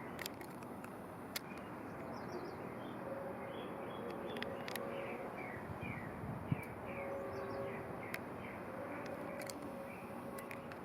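Small bird chirping in quick series of short, falling notes over a steady hiss of background noise, with a few sharp clicks and one soft thump about six and a half seconds in.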